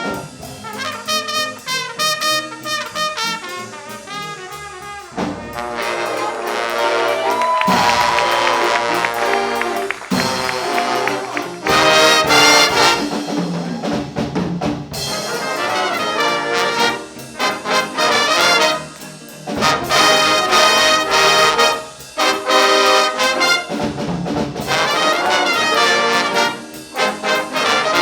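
Jazz big band playing live, with the trumpet and trombone sections in loud ensemble passages that alternate short punchy hits with longer held chords.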